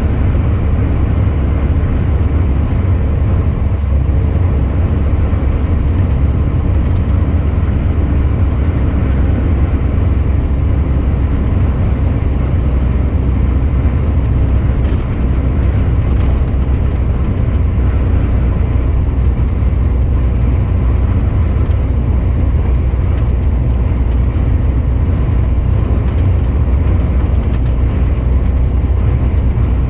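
A truck driving at a steady pace, its engine and tyres making a steady low drone.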